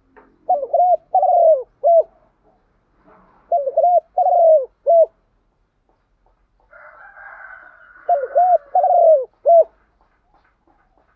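Spotted dove cooing its song phrase three times, each a few short coos around one longer, drawn-out falling note. Faint rustling hiss just before the third phrase.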